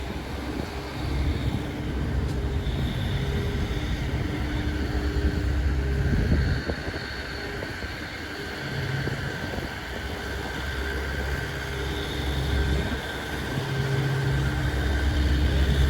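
A motor vehicle's engine running, a steady low hum and rumble that swells and eases a few times.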